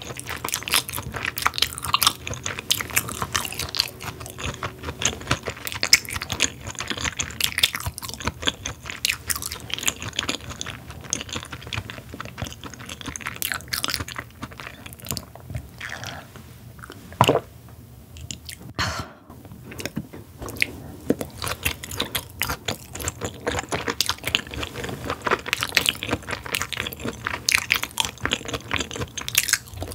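Close-miked chewing of raw beef tartare (yukhoe) dressed with egg yolk and sesame oil: a rapid run of wet mouth clicks and smacks, with a short lull about halfway through.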